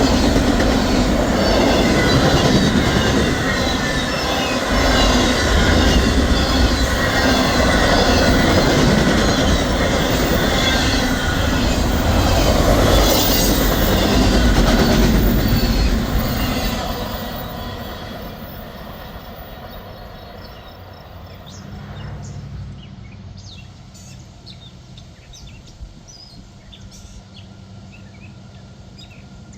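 Train cars rolling past close by, wheels clacking over the rail joints in a quick rhythm with some wheel squeal. About 16 seconds in the train passes and the sound fades away, leaving a faint low hum and scattered bird chirps.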